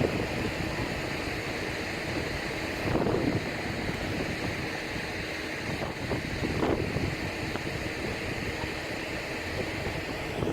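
Wind buffeting the microphone over the rush of waves and water, with a couple of brief louder surges.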